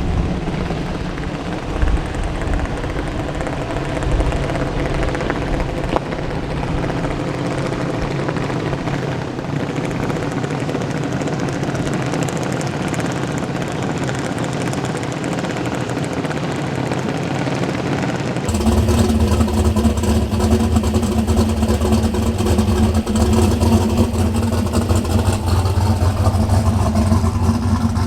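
Drag car engines running steadily without revving. About two-thirds of the way through, the sound changes abruptly to a louder, deeper engine running steadily.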